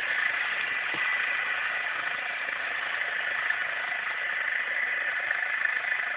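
Eurocopter EC135 twin-turbine helicopter running: a steady high whine over an even rushing noise.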